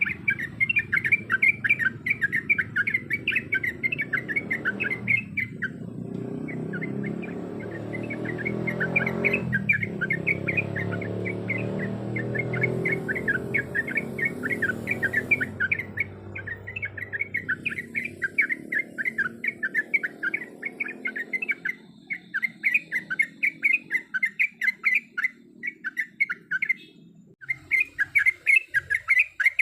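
Yellow-vented bulbul (trucukan) song: long runs of rapid, evenly repeated chattering notes, about ten a second, broken by a few short pauses. This is the lure ('masteran') song played to get caged bulbuls singing. A low rumble runs underneath through the middle.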